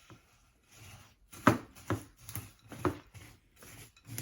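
Crisp, dry chow mein noodles crunching and snapping as they are stirred into melted chocolate and peanut butter, a string of irregular crackles with sharper snaps about one and a half, two and three seconds in.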